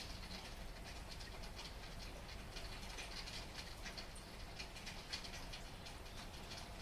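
Heavy rain falling steadily, with many close drops heard as a dense stream of short ticks over a constant low rumble.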